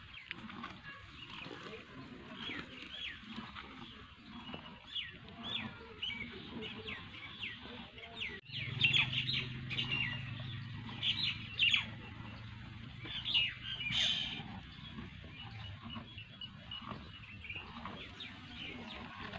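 Small birds chirping over and over, short quick high chirps that slide downward, in dense runs. About halfway through, a low steady hum comes in underneath for several seconds.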